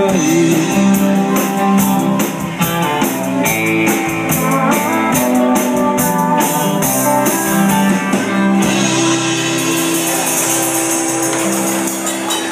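Live country band playing the instrumental end of a song, guitars over a steady drum beat, then stopping on one long held final chord with ringing cymbals for the last few seconds.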